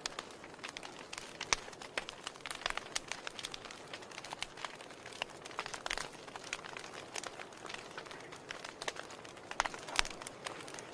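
Wood fire crackling in a fireplace: irregular sharp pops and snaps over a soft steady hiss, with one louder pop near the end.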